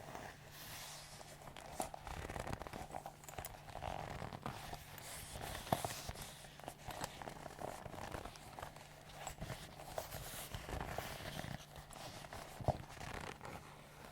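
Leather bags and gloves being handled and squeezed, creaking and rubbing with an irregular run of small clicks and a few sharper snaps, under a faint steady hum.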